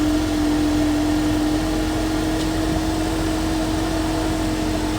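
2021 Ford Mustang's 2.3-litre EcoBoost four-cylinder engine idling, with a steady hum.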